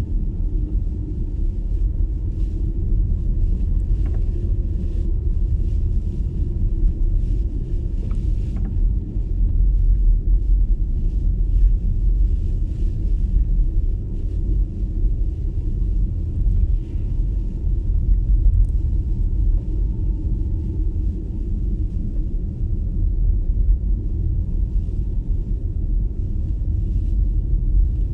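Steady low rumble of an MG ZS EV electric car driving on a snowy road: tyre and road noise with no engine sound, and faint scattered clicks now and then.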